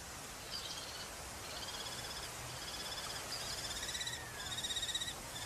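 A bird calling in a string of short, fast rattling trills, one after another, with a lower drawn-out call about four seconds in.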